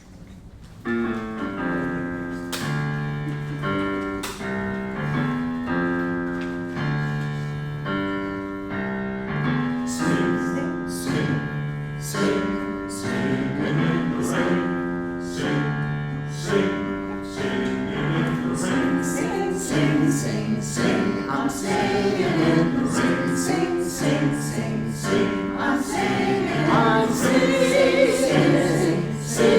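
A choir singing in harmony: held chords that change on a steady beat, beginning about a second in.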